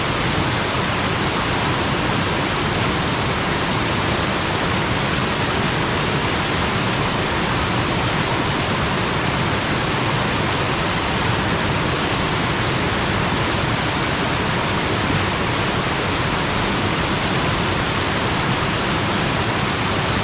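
Waterfall: water falling and running between rocks in a steady, loud, unbroken rush.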